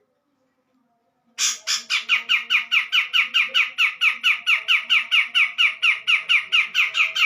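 Grey-cheeked bulbul (cucak jenggot) giving a fast, even run of repeated down-slurred calls, about four to five a second, starting a little over a second in.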